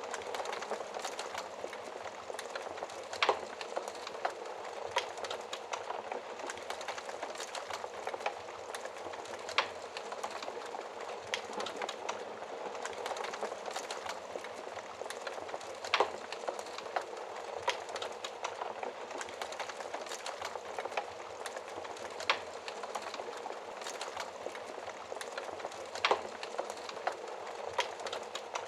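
Wood fire crackling: a steady hiss with constant small snaps and a few louder sharp pops.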